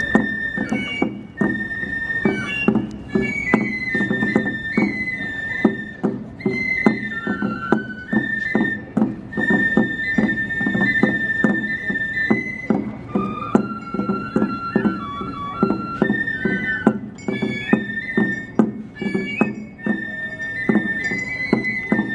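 Live Chinese-style festival music (Nagasaki Kunchi Minshingaku style): a high, sustained melody that steps and bends in pitch over steady, rapid drum and gong-like percussion.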